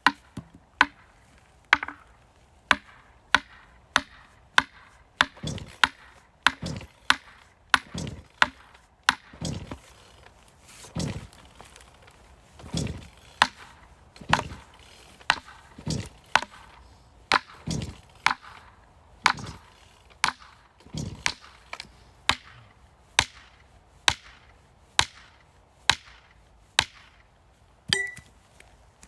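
Firewood being chopped by hand with an axe: a steady run of sharp blows about one a second, some followed by a dull crack as the wood gives.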